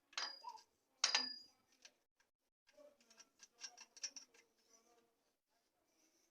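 Two sharp knocks about a second apart, each with a brief ring, then a run of light clicks and rattles as parts of a long-tail boat engine kit are handled.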